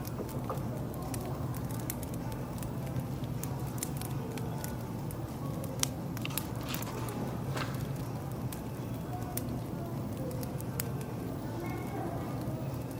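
Wood fire crackling, with scattered sharp pops and snaps over a steady low hum.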